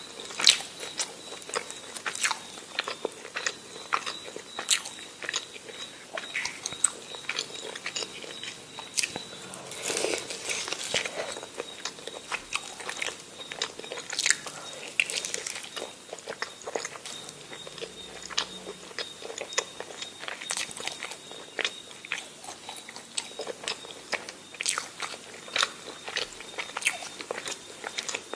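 Close-miked eating: chewing and biting food, with frequent sharp wet mouth clicks and smacks at an irregular pace.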